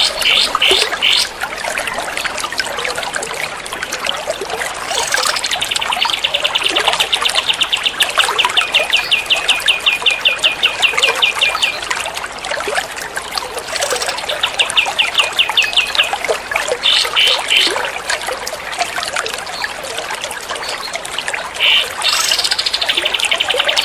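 A songbird's rapid-fire 'tembakan' song: runs of quickly repeated, evenly spaced high notes, the longest lasting about seven seconds and shorter bursts later. Under it runs a steady trickle of water, the 'trapy air' water-therapy sound of a masteran training track.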